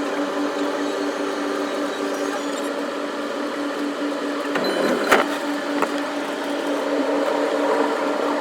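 Electric commuter train running, heard from inside the leading car: a steady hum with a pulsing tone over the running noise. There is a single sharp knock about five seconds in.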